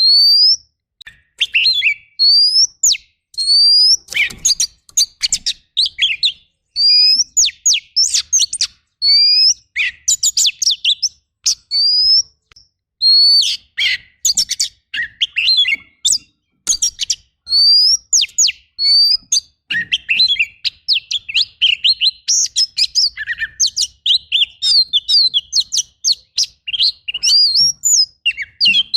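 Oriental magpie-robin (kacer) singing loud, repeated upward-sliding whistles, about one a second. From about twenty seconds in, these give way to a faster run of sharp, varied notes.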